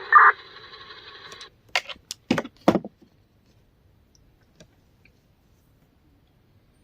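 Scanner radio transmission ending: a brief burst, then about a second of radio hiss that cuts off sharply as the squelch closes. A few sharp clicks follow shortly after.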